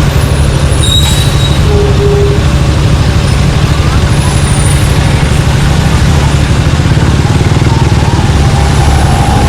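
Suzuki Gixxer 155's single-cylinder engine through an aftermarket exhaust, running steadily at low revs with an even, rapid pulse.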